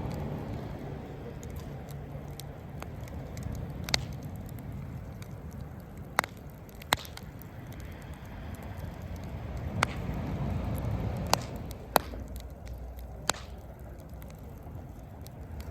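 Wood campfire burning in a Coleman Fire Disk fire pit, with irregular sharp crackles and pops about seven times over a low, steady rumble that swells about ten seconds in.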